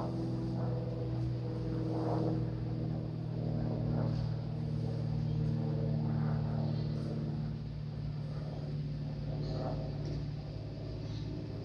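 Engine drone: a steady deep hum with several held tones, easing slightly in the second half.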